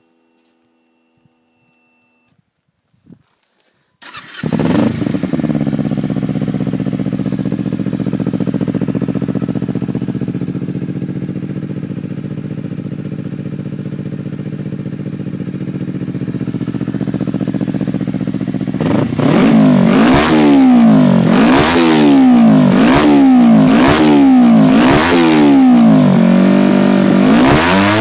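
Kawasaki Ninja 250R parallel-twin engine with a Scorpion oval slip-on exhaust starting about four seconds in, then idling steadily. Over the last nine seconds it is revved in quick blips, about seven, each rising and falling in pitch.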